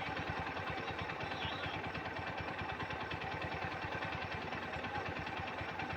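Swaraj tractor's diesel engine idling steadily, with an even, rapid low beat.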